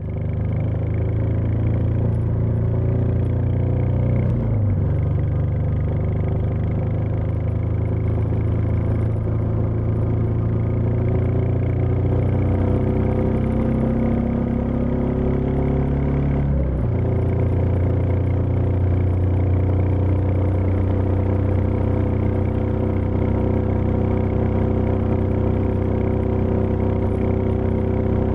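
Royal Enfield Meteor 350's single-cylinder engine running steadily. Its note changes abruptly twice, about four and a half seconds in and again about seventeen seconds in.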